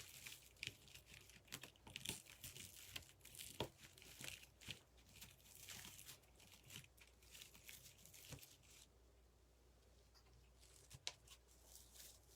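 Faint crinkling and rustling of plastic deco mesh being handled and worked into a wreath, with many small crackles. It goes quieter for a couple of seconds near the end, broken by one sharp click.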